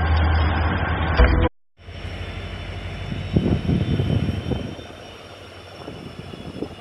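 A train running, loud, cuts off abruptly about a second and a half in. After a brief gap comes a quieter steady rumble with a faint high whine, typical of a diesel locomotive. A burst of clattering follows about three to four seconds in, then the sound settles lower.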